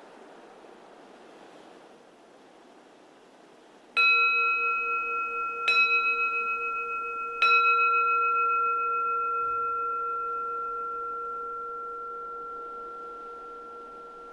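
Keisu, a Zen temple bowl bell, struck three times: first about four seconds in, then twice more at intervals of under two seconds. Each strike rings on in a long, slowly fading tone. A soft wind noise runs underneath.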